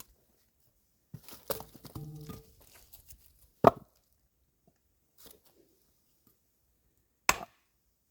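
Axe splitting firewood: two sharp, loud strikes about three and a half seconds apart, with lighter knocks and clatter of wood before the first.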